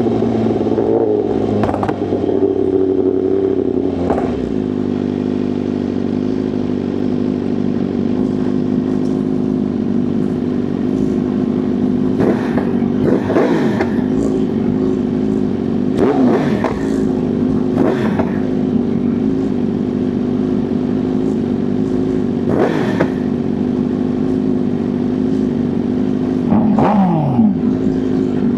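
Sport motorcycle engine running at a steady cruising speed with a constant, even drone. About five times, another vehicle sweeps past with a brief swell that drops in pitch as it goes by, the clearest near the end.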